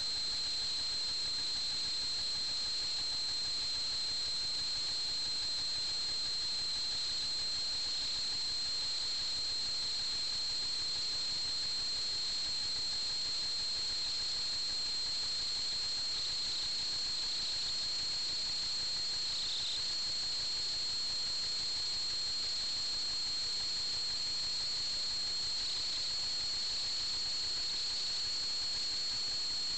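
Steady hiss with a constant high-pitched whine, even in level throughout; the whine dips briefly about two-thirds of the way through.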